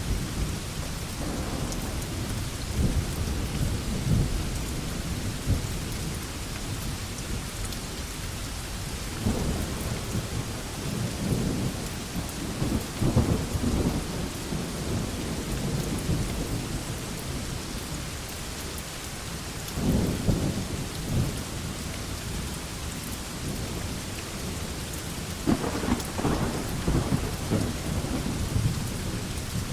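Heavy rain falling steadily on a veranda, with low rumbling swells rising and fading a few times.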